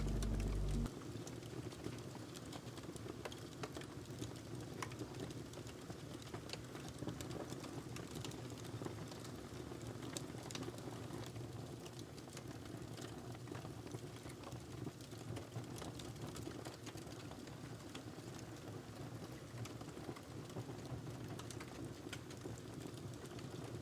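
Wood fire crackling, with irregular sharp pops and clicks over a steady low hiss. Music ends about a second in.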